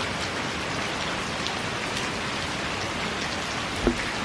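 Heavy rain pouring down steadily, with faint individual drops ticking through it. There is one brief low bump near the end.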